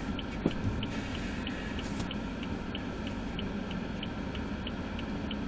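A BMW F30 320i's 2.0-litre turbocharged N20 four-cylinder running steadily, heard as a low hum, with a light regular ticking about three times a second over it.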